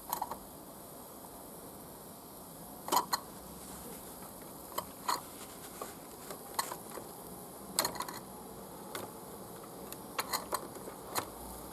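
Mamod SP8 live-steam beam engine with its gas burner lit and steam valve just opened: a steady hiss with short, irregular clicks and knocks from the engine as it is tried, not kicking over into a steady run.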